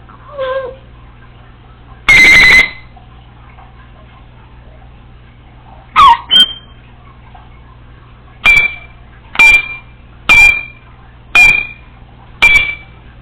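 Congo African grey parrot making beep-like whistled calls in mimicry of electronic sounds: a long beep about two seconds in, a short pair of chirps, then a run of five short chirps about a second apart.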